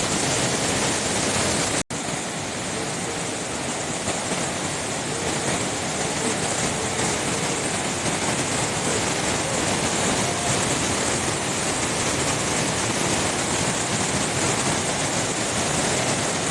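Waterfall: a steady rush of falling water that cuts out for a split second about two seconds in.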